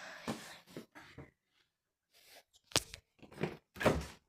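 Cat eating, a few crunches and scrapes as he chews, his teeth scratching together because he has no front teeth. Scattered soft crackles, a short pause, then three sharp crunches in the second half.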